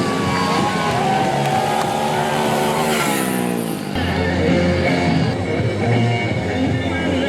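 Motorcycle engines racing on a dirt track, one winding down in pitch about three seconds in, mixed with rock music.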